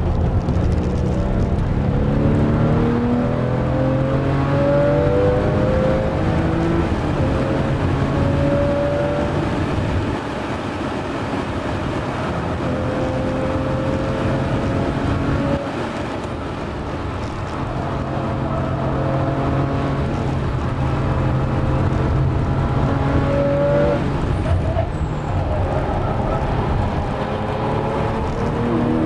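Porsche 997 Carrera S's flat-six engine from inside the cabin under hard driving, revs climbing again and again as it pulls through the gears. It eases off about ten seconds in and again about fifteen seconds in, then builds back up.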